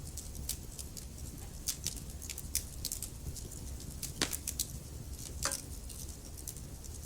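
Wood logs burning in a fireplace, crackling with irregular snaps and pops over a low steady rumble of the flames; two louder pops about four and five and a half seconds in.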